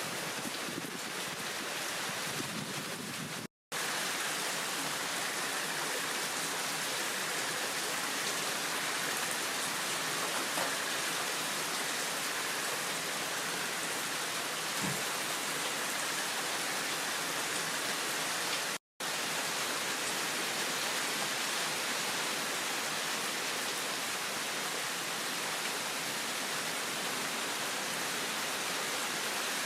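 Heavy rain falling steadily in a downpour, an even hiss with two brief breaks.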